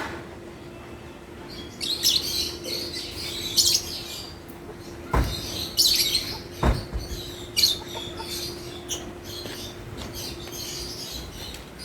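African lovebirds chirping, a run of short high-pitched calls repeated again and again. Two sharp knocks are heard about five and six and a half seconds in.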